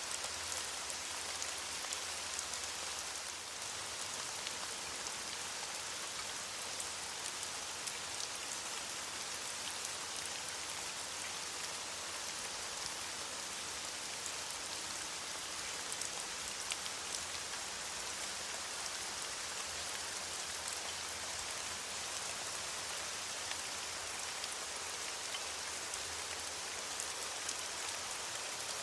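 Steady rain falling on leaves: an even hiss of rainfall with many small, sharp drop patters scattered through it.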